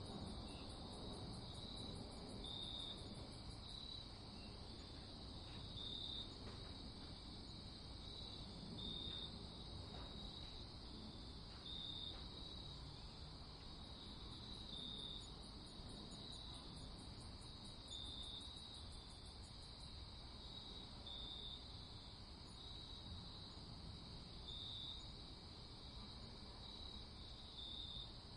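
Faint night insect chorus: crickets chirping every second or so over a steady high trill, with a higher, faster pulsing trill joining for a few seconds near the start and again midway, over a low even background hiss.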